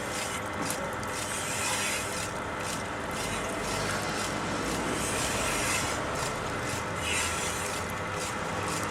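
Knife edge being stropped on a motor-driven leather polishing wheel loaded with compound, a steady rubbing hiss over the machine's hum that swells and fades with each pass as the wheel strips the burr off the edge.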